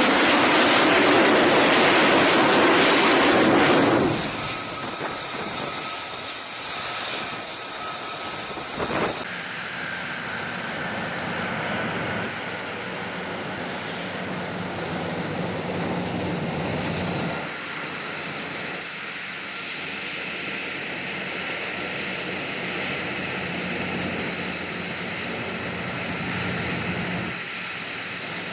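Aircraft engine noise: a loud rushing noise for the first four seconds, then a quieter, steady drone with a few held tones after a cut about nine seconds in.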